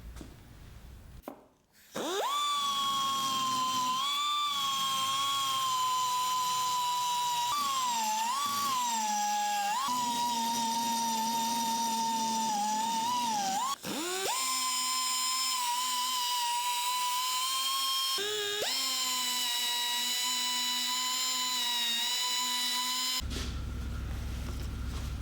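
A small high-speed power tool's motor whines steadily, starting about two seconds in. Its pitch sags a few times, and it stops and restarts twice before shutting off near the end.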